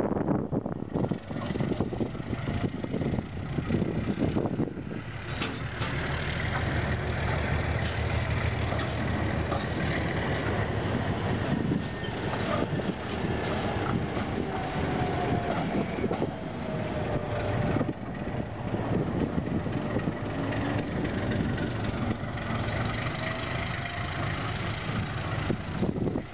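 Freight train of covered wagons rolling past: a steady rumble of wheels on rail with repeated clacks over the joints, and faint wheel squeals midway and again near the end.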